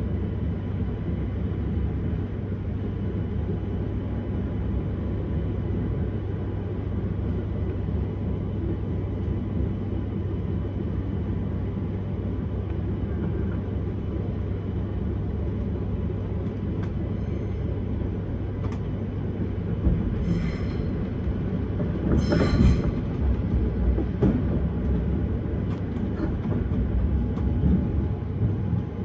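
S-Bahn train running along the track with a steady rumble of wheels on rail and a faint steady whine. Several knocks from the track come in the second half; the loudest falls about two-thirds of the way through.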